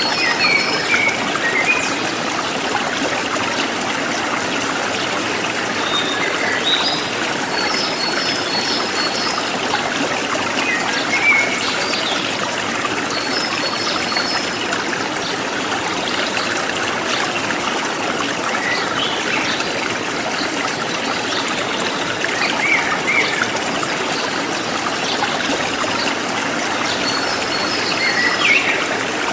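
Forest stream flowing steadily, a constant rushing trickle of water. Small birds chirp over it every few seconds, with a few quick runs of short, high repeated notes.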